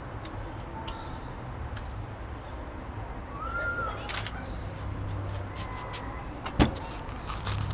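Small birds chirping in short arched calls over a steady low rumble, with scattered clicks and one sharp knock about six and a half seconds in.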